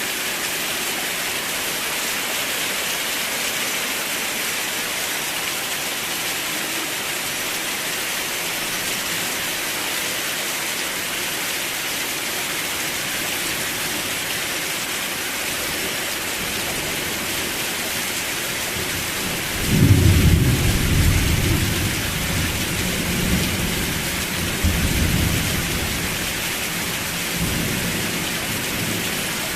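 Steady rain falling, an even hiss, with a roll of thunder breaking in about two-thirds of the way through, loudest at its start and rumbling on in waves for several seconds before fading back under the rain.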